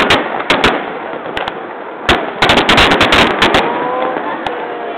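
Aerial fireworks shells bursting with sharp bangs: a few single reports, then a quick run of rapid bangs and crackles about two seconds in that lasts around a second and a half.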